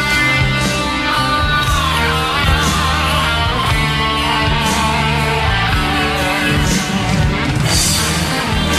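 Instrumental break of a karaoke backing track: band music led by guitar over a steady bass line, with no singing.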